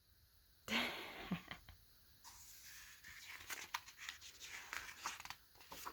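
Faint rustling of paper with small crackles and clicks as a picture book's pages are handled and turned.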